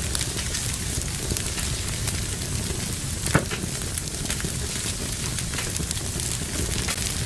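Fire burning in a fireplace, crackling steadily with many small pops and one louder pop about halfway through.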